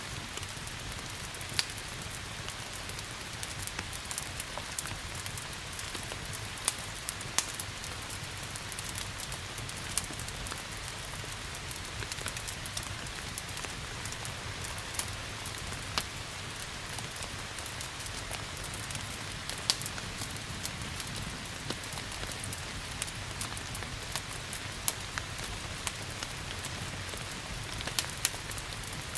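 Crackling fireplace fire giving off irregular sharp pops and snaps over a steady hiss of rain.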